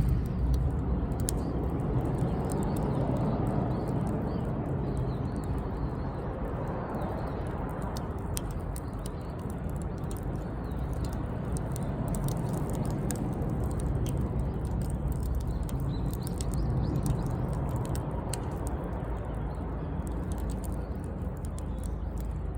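Wood campfire burning: a steady low rush with scattered small crackles and pops throughout.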